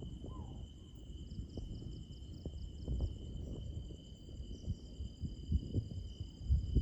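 Insects trilling steadily and pulsing at a high pitch, over a low rumble with scattered knocks.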